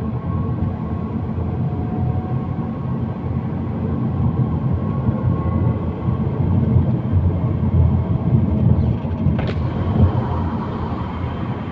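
Inside a 2008 BMW 3 Series four-cylinder petrol estate on the move: steady road and drivetrain noise with a faint, hollow whine over it, the sound of a failing rear differential. There is a sharp click about nine and a half seconds in.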